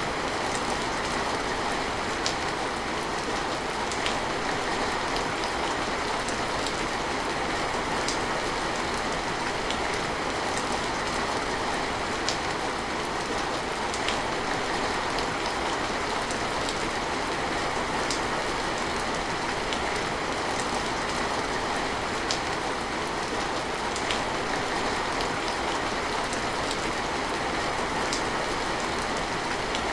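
Steady rain falling, with single sharp drop ticks standing out every couple of seconds.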